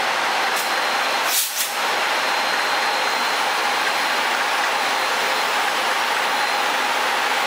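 Steady rushing noise of a train at a station, played at double speed, with a brief break about a second and a half in.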